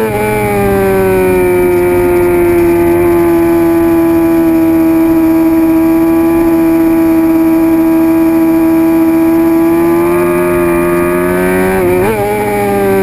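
A 2006 Suzuki GSX-R750's inline-four engine running at steady high revs under throttle. Its pitch eases at first, then holds almost level for several seconds. Near the end it dips and jumps in a quick gear change before settling again.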